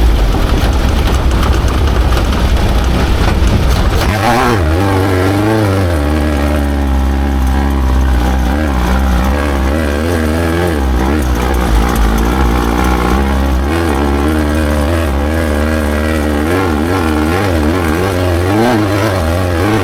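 Off-road race vehicle's engine running hard, its pitch rising and falling over and over with the throttle. For about the first four seconds it is buried in a dense rush of noise before the engine note stands out.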